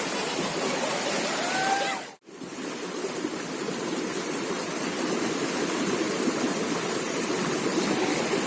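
River water flowing and rushing steadily. The sound cuts out abruptly about two seconds in and fades straight back.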